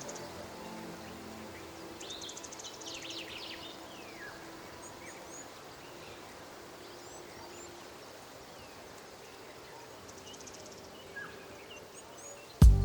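Outdoor nature ambience of scattered bird chirps and an insect trilling in three short pulsed bursts, with soft held music tones fading away at the start. Loud music cuts in abruptly right at the end.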